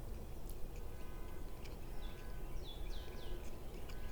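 A small bird chirping a few quick falling notes about two and a half seconds in, over a steady low rumble.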